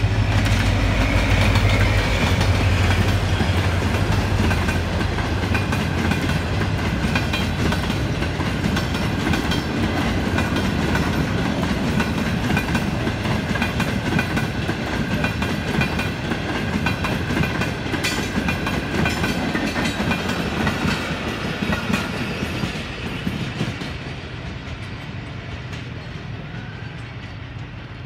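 HGMU-30 diesel-electric locomotive's engine running loudly as it passes close in the first few seconds, then the passenger coaches rolling by with a steady clickety-clack of wheels over the rails. A faint steady high squeal runs through the middle of the pass, and the sound fades away over the last several seconds as the train recedes.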